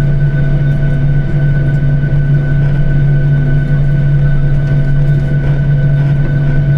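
Steady hum of an airliner's jet engines and air system heard inside the passenger cabin, with a strong low drone and a few high steady tones.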